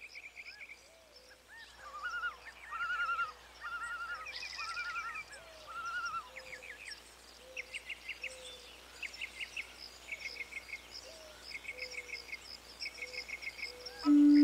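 Several wild birds calling: series of short chirps and quick repeated trills. Music with a steady held tone comes in near the end.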